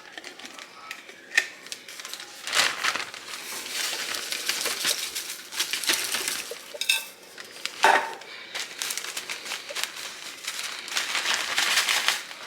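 Kitchen utensils and dishes clinking and scraping during food preparation, with a short ringing clink about seven seconds in and a sharp knock just after.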